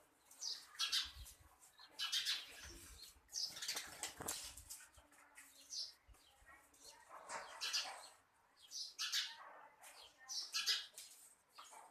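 Birds calling in repeated short, high-pitched bursts about once a second.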